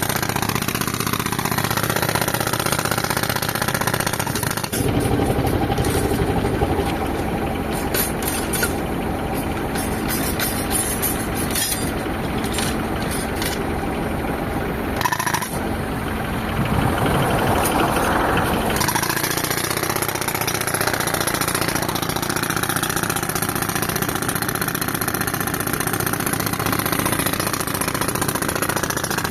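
Tractor-driven air compressor engine running steadily. From about five seconds in, for about fourteen seconds, a pneumatic breaker hammers rapidly into a reinforced concrete beam.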